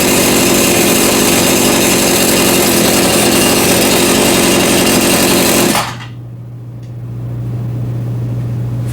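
Portland 42cc two-stroke chainsaw running on its first start. It cuts off abruptly about six seconds in, leaving a quieter low steady hum.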